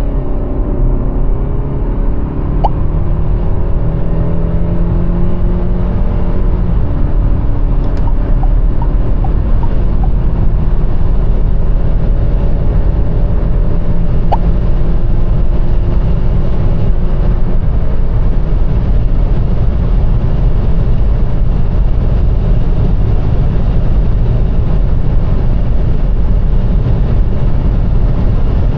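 2025 KGM Tivoli's 1.5-litre turbocharged petrol four-cylinder under full-throttle acceleration through its six-speed automatic. The engine note rises and drops back at upshifts about two and a half and seven seconds in, then climbs slowly. Wind and tyre noise grow steadily as speed builds toward top speed.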